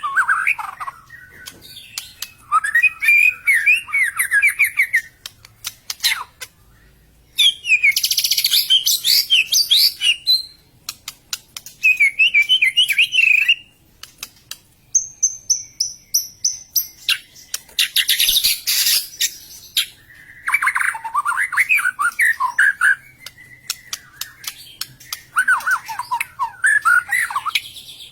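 White-rumped shama (murai batu) singing loud bursts of fast, varied whistled phrases a few seconds long with short pauses between, mixed with a high drawn-out whistle and harsh, noisy calls: the agitated, aggressive 'fighter' song of a bird worked up into emotion.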